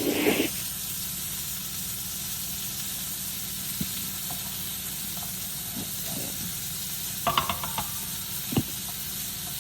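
Pepper steak beef browning in a frying pan, sizzling steadily. A few clicks and a sharp knock come near the end.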